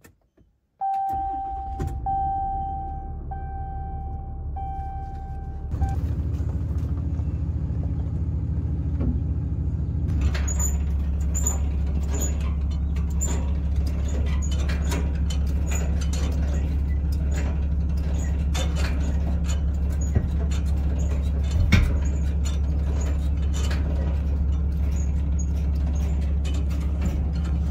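An electronic chime beeping at one steady pitch. About six seconds in, a Ram 3500's 6.7-litre Cummins turbo diesel starts and settles into a steady idle with a ticking clatter.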